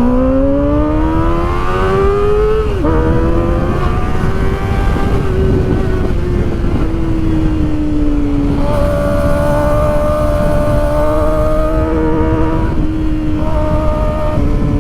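Kawasaki Ninja ZX-4RR's inline-four engine under way. It climbs in pitch for about three seconds, drops sharply at a gear change, then holds a nearly steady cruise at around 90 km/h, over wind noise.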